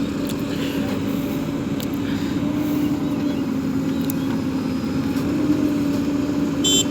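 Heavy diesel engine running steadily at an even speed, with a strong constant hum. A short high-pitched beep sounds near the end.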